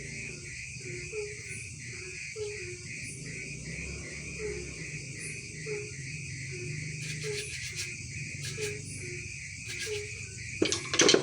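Night insects, likely crickets, chirping in a steady pulsing chorus, with short low chirps repeating every second or so. A brief loud clatter comes near the end.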